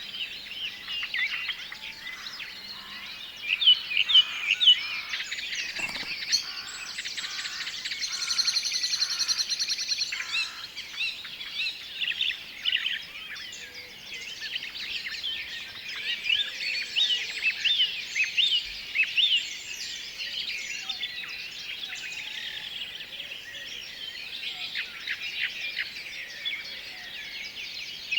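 Forest songbirds calling together: many overlapping quick chirps and whistled notes, with a fast, even trill about eight seconds in that lasts about two seconds.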